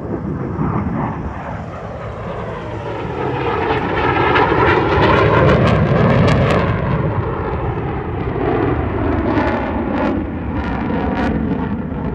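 Military fighter jet flying past: its roar swells to its loudest about midway and then eases off, the pitch sliding as it goes by.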